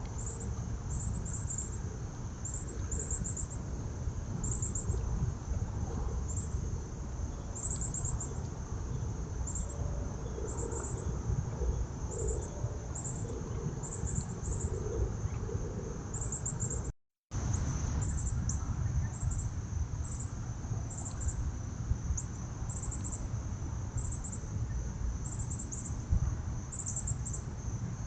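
Insects chirping outdoors in short high-pitched pulsed bursts, about one or two a second, over a steady low rumble. The sound cuts out for a split second a little past the middle.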